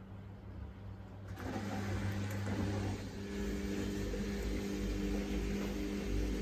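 Samsung WF1700WRW front-loading washing machine running its daily cycle: a steady low hum, then about a second and a half in a louder rushing noise starts, and a little later a steady motor whine joins.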